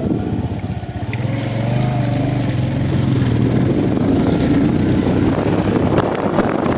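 Motorcycle engine running under way, heard from the bike itself with wind buffeting the microphone; the engine note shifts about halfway through.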